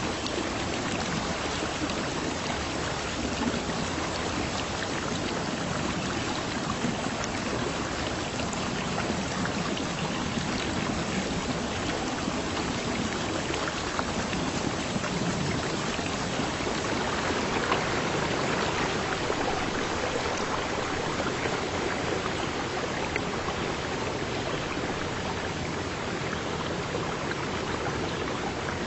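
Running water: a steady, even rush with small scattered splashes and ticks.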